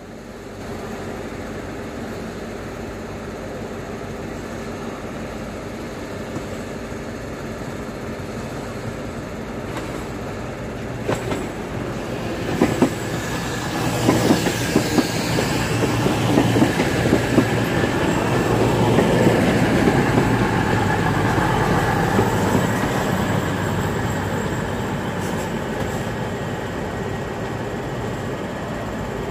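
CrossCountry Voyager diesel multiple unit running past at close range, its wheels clicking over rail joints and points. The train grows louder to a peak about two-thirds of the way through, then slowly fades.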